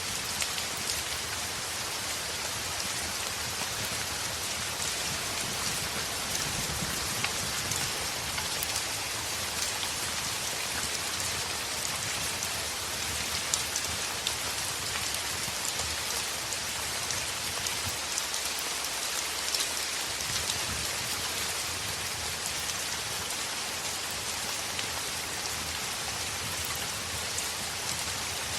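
Heavy rain falling on a window: a steady, even hiss with many scattered sharp ticks throughout.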